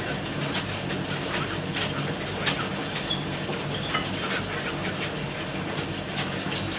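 A motor running steadily, with scattered sharp clicks and knocks over it.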